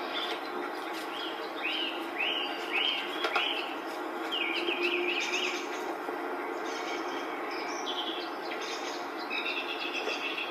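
A bird singing: a run of short, arched chirping notes, repeated in quick series, over a steady background hiss.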